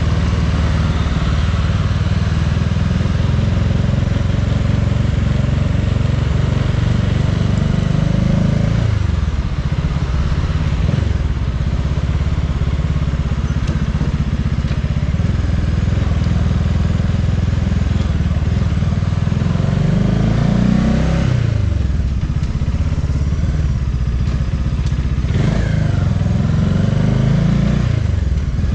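Bajaj Dominar 400's single-cylinder engine running under way, its note climbing and dropping a few times as the bike accelerates and shifts, over steady road and traffic noise.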